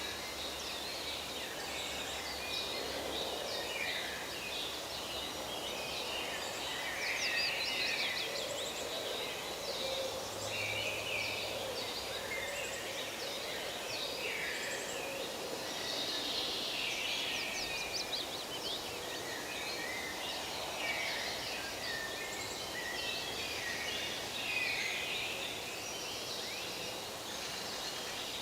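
Forest ambience: many birds chirping and trilling, overlapping throughout, over a steady background hiss.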